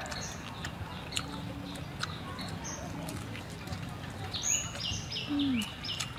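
A bird chirping in a fast run of short, high repeated notes, starting about four seconds in, over scattered soft clicks from chewing roasted duck meat.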